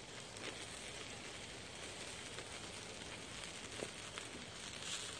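Wood fire crackling softly under grilling fish, a steady faint hiss with a few small pops.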